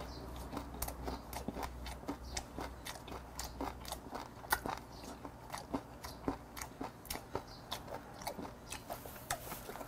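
Close-up chewing, picked up by a clip-on microphone, of a mouthful of raw mudskipper sashimi wrapped in a perilla leaf with garlic and chili. It comes as an irregular run of small crunchy clicks and smacks.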